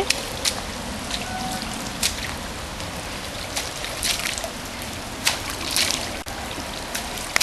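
Pouring rain, a steady hiss with many scattered sharp splats of water drops and splashes.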